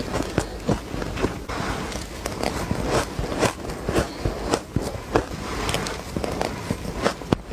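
Ice cubes being bitten and crunched between the teeth, close to the microphone: a quick, irregular run of sharp cracks and crunches, a few a second.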